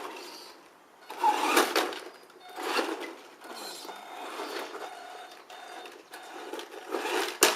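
Small electric motor of a radio-controlled monster truck whirring in short, irregular bursts as it is driven in spurts, with a sharp click near the end.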